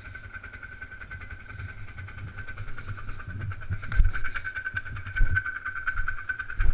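Polaris Sportsman 500 ATV's single-cylinder engine running as it rides along a trail, with a steady high whine over the low engine note. Several sharp thumps from jolts over rough ground come about four seconds in, again a second later, and near the end.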